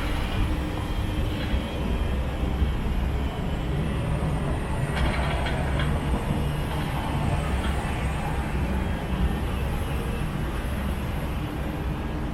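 Outdoor ambience dominated by a steady low rumble, with a short cluster of sharper sounds about five seconds in.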